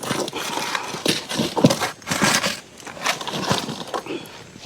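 Irregular knocks, scrapes and rustling as wood and coals are handled at a campfire.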